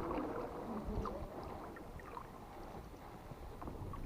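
Strong wind buffeting the microphone, with water splashing and a few faint clicks.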